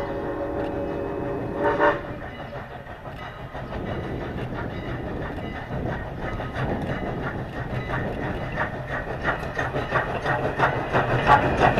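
A steam locomotive whistle, the ex-Canadian National 2-6-0 No. 89's, holding a steady chord that cuts off about two seconds in. After it, the train rolls on with a regular clicking that grows louder toward the end.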